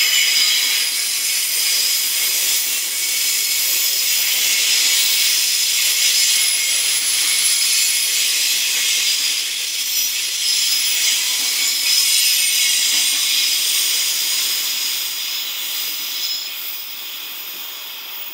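Wheels of a container freight train rolling over the rails as the last wagons pass and draw away, a steady high hiss with faint squealing tones, fading over the last few seconds.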